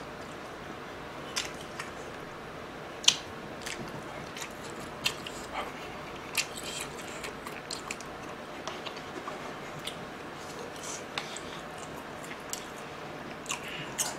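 Close-miked eating: chewing and mouth sounds with scattered short clicks and taps of chopsticks against plastic food trays, the sharpest click about three seconds in.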